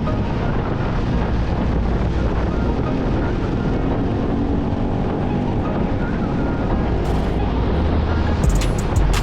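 Motorcycle engine running steadily on the move, under heavy wind noise on the microphone. Near the end come a few sharp clicks.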